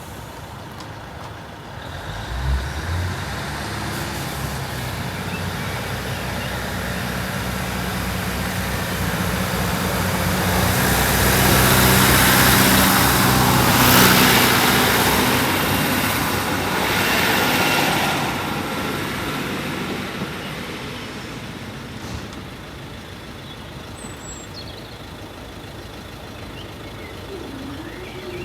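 Northern diesel multiple unit passing over the level crossing: its engine note comes in a couple of seconds in, and the engine and wheel-on-rail noise swell to their loudest partway through as the train goes by, then fade away as it leaves.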